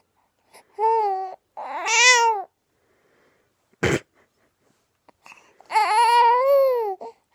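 Infant cooing and squealing: two short drawn-out vocal sounds about a second in, then a longer one that rises and falls near the end. A brief breathy burst falls between them.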